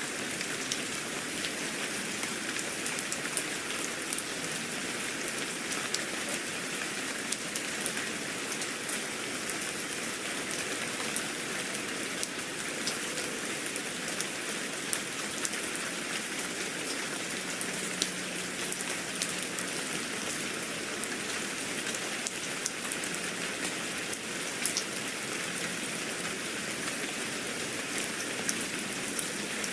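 Steady rain falling on a surface, an even hiss dotted with frequent small drop ticks.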